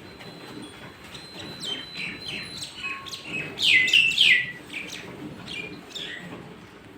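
A bird calling: a quick series of high chirps, each sliding steeply downward, loudest in the middle of the run.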